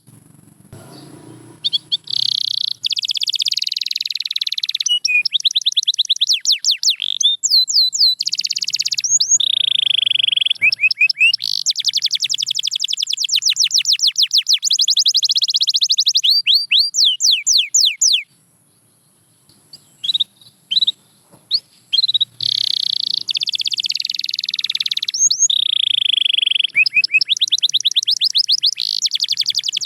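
Domestic canary singing: fast trills of rapidly repeated high notes and rolling runs, broken by a pause at the start and another, with a few short chirps, about two-thirds of the way through.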